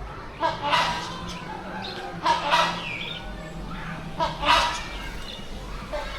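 Fowl calling: three loud, short calls about two seconds apart.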